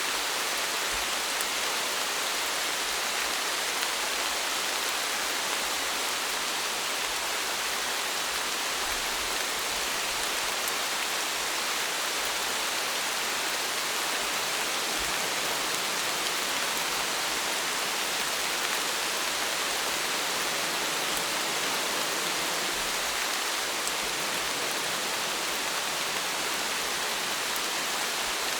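Steady rainfall: an even hiss of rain with scattered drops, unchanging in level.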